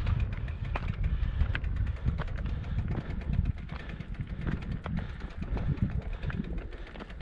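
Low rumble of wind buffeting the microphone, with many small irregular clicks and scuffs of footsteps on a stony mountain path.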